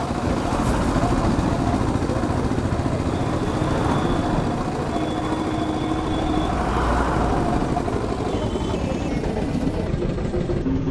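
Bajaj Pulsar RS200 motorcycle being ridden, its single-cylinder engine running steadily under a constant rush of wind and road noise.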